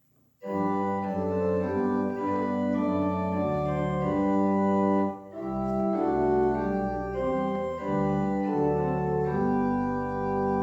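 Organ playing slow, held chords, starting about half a second in, with a brief break between phrases about five seconds in.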